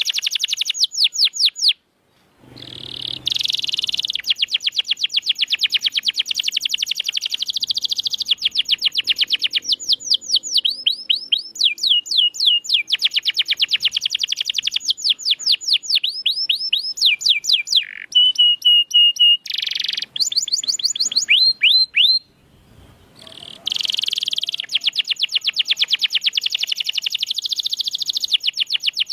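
Domestic canary singing: long, fast rolling trills of repeated downward-sweeping notes, changing from one trill to the next. The song breaks off briefly about two seconds in and again about three-quarters of the way through.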